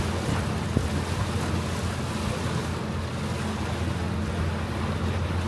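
Sightseeing riverboat's engine running with a steady low hum, under the rush of water and wind on the microphone.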